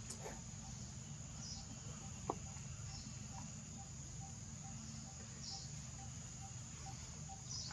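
Faint outdoor ambience: a steady high drone of insects over a low rumble. Several short high chirps about 1.5, 3 and 5.5 seconds in, a faint regular ticking call, and one sharp click a little over two seconds in.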